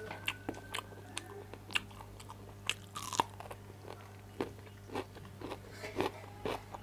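A person eating close to the microphone: irregular crisp crunches of bites and chewing, with no steady rhythm.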